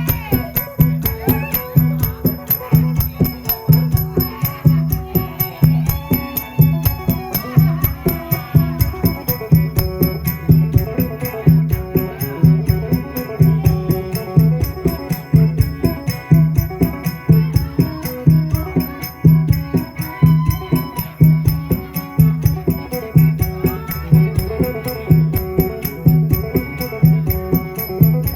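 Isan phin, the plucked northeastern Thai lute, playing a fast, lively folk tune in the phin hao style, with percussion keeping a steady low beat and rattling strokes between. It is traditional music for a mo yao spirit-healer ceremony.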